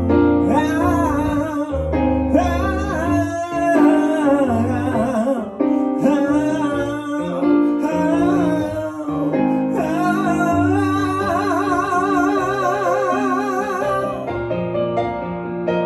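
Man's voice singing a long wordless 'ah' refrain with vibrato over live piano accompaniment; the voice stops near the end and the piano carries on alone.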